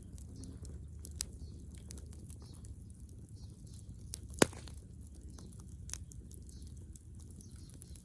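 Bonfire of dead wood crackling, with scattered sharp pops, the loudest about four and a half seconds in, over a steady low rumble.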